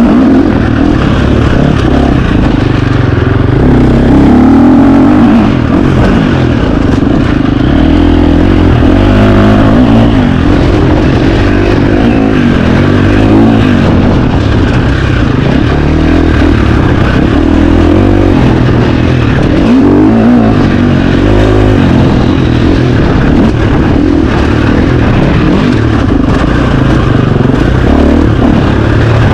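KTM 350 XC-F single-cylinder four-stroke dirt bike engine being ridden, revving up and down, its pitch rising and falling repeatedly with the throttle.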